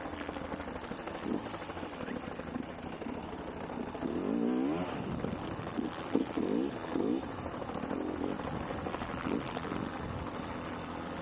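Dirt bike engine running, its pitch rising and falling with the throttle several times, loudest about four seconds in, over a steady rushing noise.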